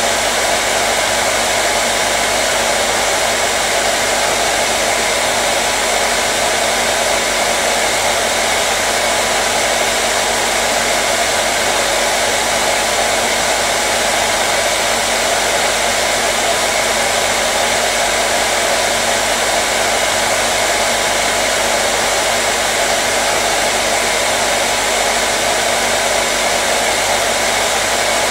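Hair dryer blowing steadily without a break: an even rushing of air over a low motor hum.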